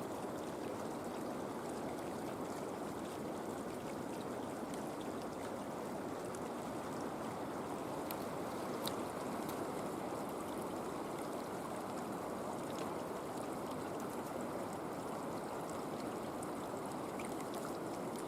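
Creek running: a steady rush of flowing water.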